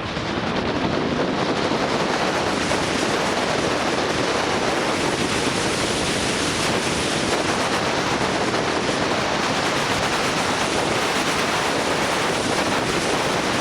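Steady rush of wind over the microphone of a camera riding on a moving motorbike, an even noise with no clear engine note.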